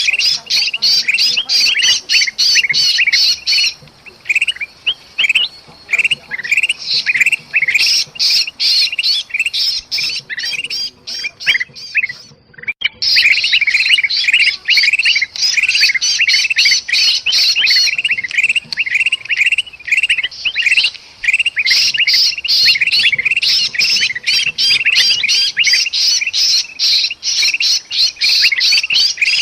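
A noisy, agitated chorus of bulbuls (kutilang) calling and squawking in a dense, unbroken chatter, with the alarm and distress calls of a trapped bird. This is the kind of mobbing racket used as a lure call to draw birds in. It thins out for a few seconds near the start and breaks off briefly about halfway through.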